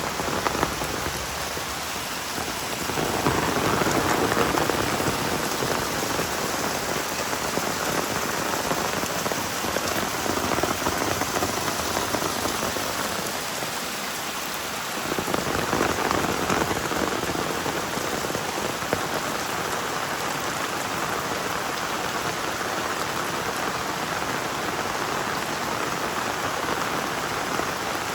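Heavy rain pouring down steadily, swelling louder twice: a few seconds in and again about halfway through.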